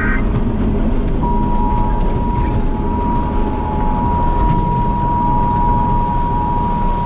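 Emergency alert two-tone attention signal, a steady pair of tones that starts about a second in and holds, announcing a severe thunderstorm warning. Under it is the steady low rumble of the tractor running, heard from inside its cab.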